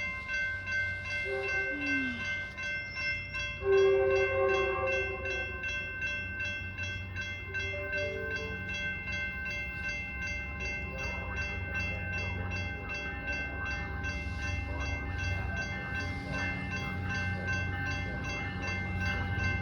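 Metrolink commuter train approaching on diesel locomotive power, its horn sounding a loud blast about four seconds in and a shorter one later, over a low engine rumble that grows as it nears. A steady high ringing runs underneath.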